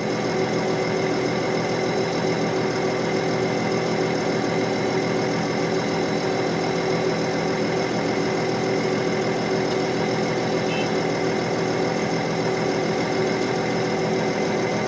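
Diesel engine of heavy earthmoving equipment running steadily at a constant speed, with no revving or load changes.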